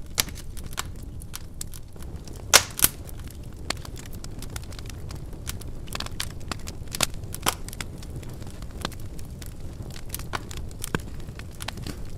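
Wood fire crackling: irregular sharp pops and snaps over a steady low rumble of burning, with two louder pops about two and a half seconds in.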